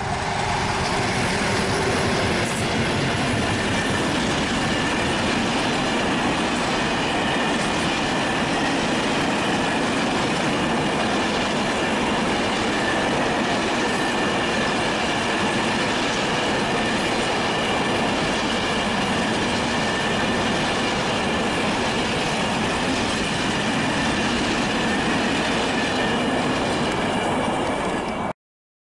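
Freight train of container flatcars passing close by at speed behind a D.445 diesel locomotive: a steady, loud rush of wheels on the rails with a high steady whine over it. The sound cuts off suddenly near the end.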